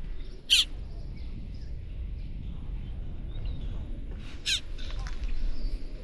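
A bird gives two short, harsh calls about four seconds apart, over a steady low rumble.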